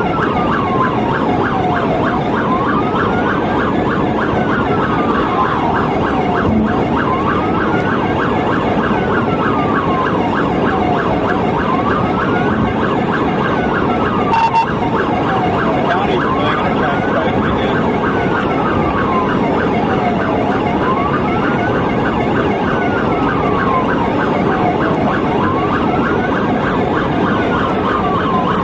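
Police car siren wailing, rising and falling slowly about every four seconds, over steady road and engine noise from the cruiser in a highway-speed pursuit.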